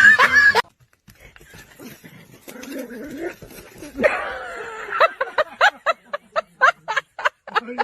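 A dog whining, then a quick run of short high whines, about three a second, in the second half. A loud sound from the start cuts off about half a second in.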